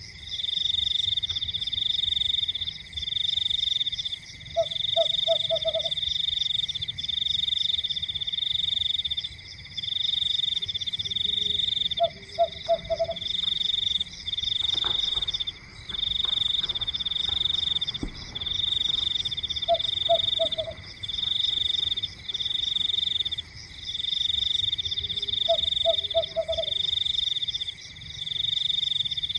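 A night chorus of calling frogs. A fast-pulsed high trill repeats in bursts of about a second with short gaps, and a lower call of three or four quick notes comes every six seconds or so, over a steady high tone.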